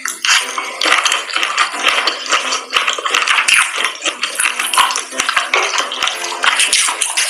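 Close-miked mukbang eating: wet, crackly chewing of chewy sauced seafood such as octopus, with many short sharp clicks.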